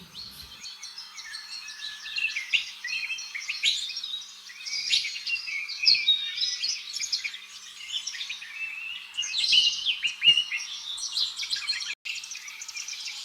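Birds chirping and tweeting: many short, high calls overlapping in a busy chorus, with a brief break near the end.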